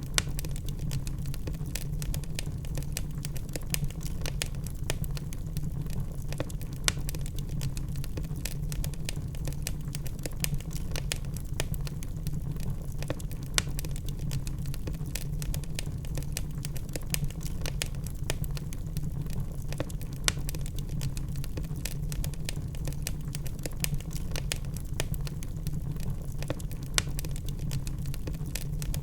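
Wood fire burning in a fireplace: a steady low rumble with constant crackling of the logs and an occasional louder pop.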